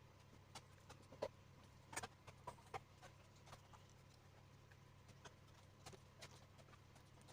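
Near silence with faint, irregular clicks and taps, a few sharper ones about a second or two in, from small parts and tools being handled, over a low steady hum.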